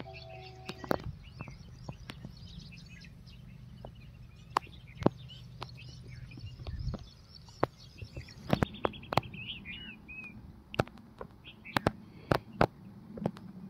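Small birds chirping and calling repeatedly, with scattered sharp clicks and knocks, the loudest about four and five seconds in. A low steady hum underneath stops about halfway through.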